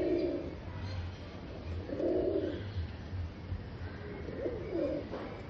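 Domestic pigeons cooing in courtship: three low coos about two seconds apart.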